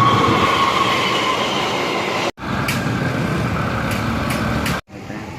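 A train passing close by on the track: a steady rumble with a high whine that slides slightly down in pitch, then a few sharp clicks of wheels over rail joints. The sound cuts out abruptly twice, about two seconds in and again near the end.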